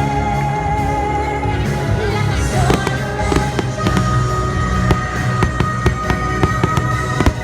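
Fireworks show soundtrack with long held notes. From about two and a half seconds in, a rapid series of sharp firework bangs and crackles joins it.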